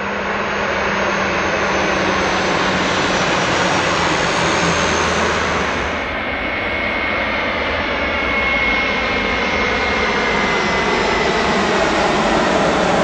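Boeing 737 jet engines running loud and steady. A high whine comes in about halfway through and slides slightly lower.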